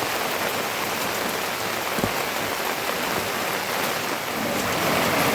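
Steady rain falling, an even hiss of drops, with a single sharp tick about two seconds in.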